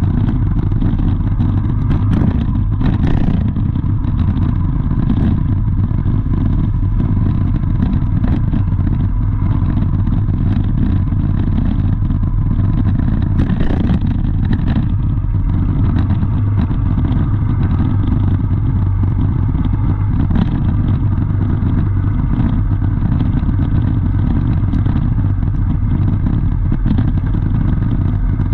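Steady low vehicle engine rumble with scattered light clatter.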